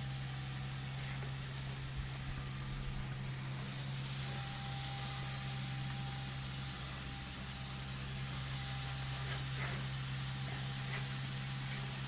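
Burger patties and hot dogs sizzling on the hot grates of a Dyna-Glo five-burner gas grill, a steady hiss that grows louder about four seconds in.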